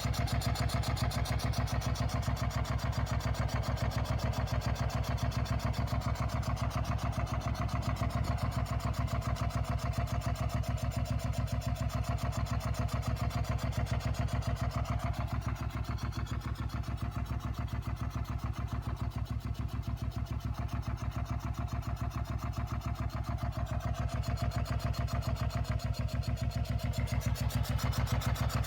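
2004 Suzuki SV650's V-twin engine idling steadily with a quick, even pulsing. The owner has not yet found what is causing an unusual noise from the engine.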